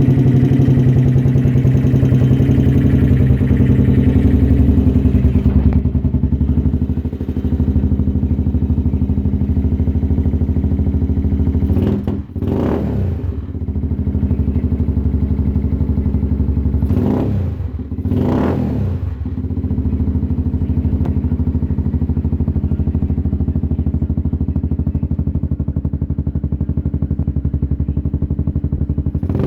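Italika motorcycle engine idling through an aftermarket exhaust, with three quick throttle blips: one about twelve seconds in, then two close together about five seconds later.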